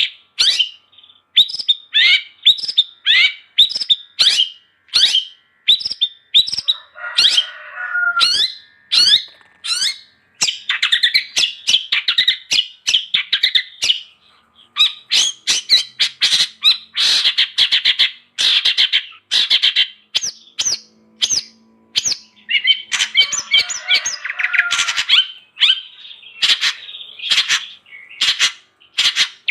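Long-tailed shrike (cendet) singing vigorously. It gives a fast string of sharp, harsh notes and chattering phrases with short pauses, twice breaking into a rougher, scratchier chatter.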